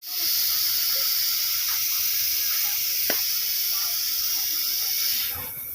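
A steady, high hiss of gas under pressure, dropping away about five seconds in.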